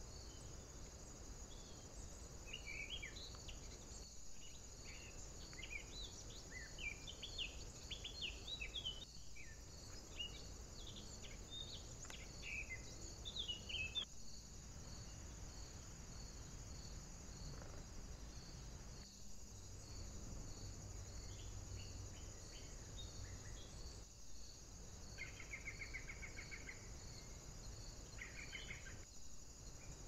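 Wild woodland birds singing short, scattered chirps and phrases, with two brief trills near the end, over a steady high insect-like chirring that pulses several times a second. The sound drops out briefly about every five seconds where the trail-camera clips join.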